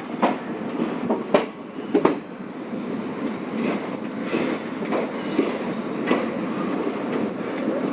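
Indian Railways express train running: a steady rumble with irregular clacks of the wheels over rail joints.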